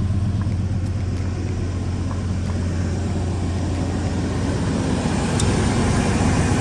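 2000 Cadillac Escalade's 5.7-litre V8, fitted with a cold air intake, idling steadily with a low hum. The sound grows a little louder about five seconds in.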